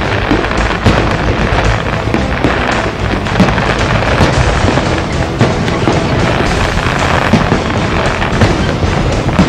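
Aerial firework shells going off in quick succession, repeated bangs and crackling, over continuous loud music.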